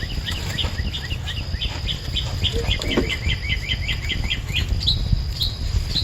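A songbird singing a fast run of short chirps, about five a second, that slows near the end to a few single higher notes, over a steady low background rumble.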